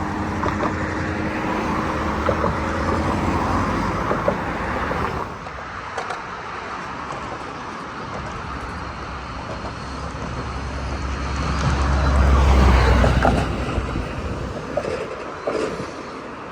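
Road traffic: a steady engine hum that drops away about five seconds in, then a vehicle passing close with a deep rumble that swells and fades.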